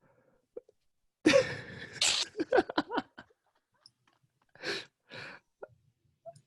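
A person sneezing loudly about a second in, then two shorter breathy bursts near the end.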